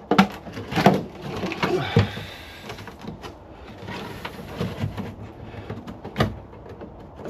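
Scattered knocks, clunks and scraping as parts and panels are handled in a car's boot, with a sharper knock about six seconds in.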